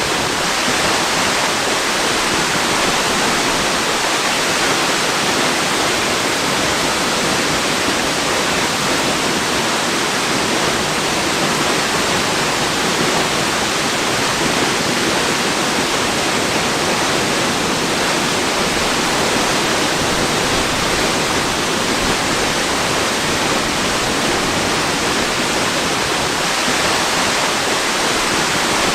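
Waterfall rushing steadily, an even, unbroken roar of falling water with no rise or fall.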